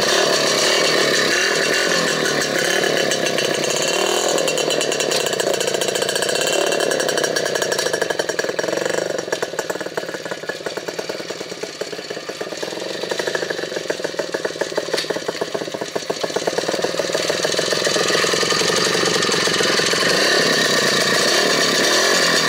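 Custom motorcycle's engine running, its pitch rising and falling as the throttle changes. It grows quieter for a few seconds in the middle, then louder again.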